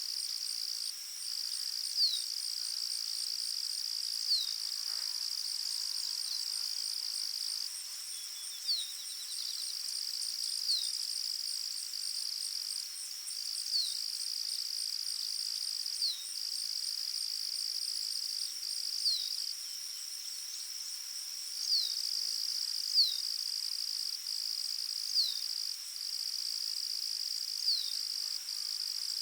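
Forest ambience: a steady high-pitched insect trill, with brief breaks, under a bird's short, high, falling call repeated every two to three seconds.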